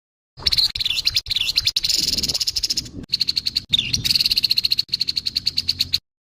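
Grey-headed babbler (tepus kepala abu) giving its harsh, scratchy rattling call: rapid trains of notes in several bouts with brief breaks between them.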